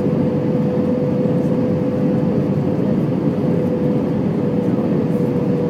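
Airliner cabin noise during the approach: a steady roar of engines and airflow, with a steady tone running through it.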